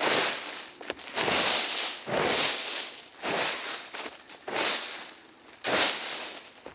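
Dry fallen leaves crunching and rustling in a steady rhythm, about one long crunch a second.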